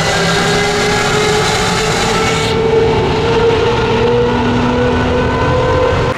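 Mercedes-Benz W140 S600's V12 with an aftermarket Brilliant exhaust, heard from inside the car, pulling steadily under load with its pitch slowly rising, in a road tunnel.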